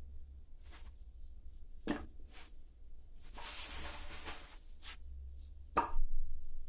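Split oak firewood being handled and stacked: a wooden knock, a scraping rustle of wood sliding against wood, then a louder knock as a log is set down near the end.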